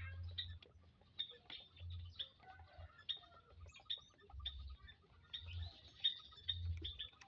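Quail in an aviary chirping: many short, high chirps, scattered and overlapping.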